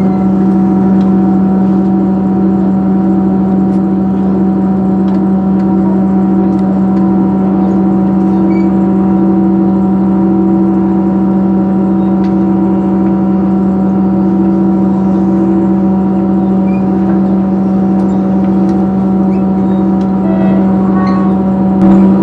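Steady drone of a train running at speed, heard from inside the carriage: a low hum with several steady tones above it that do not change in pitch.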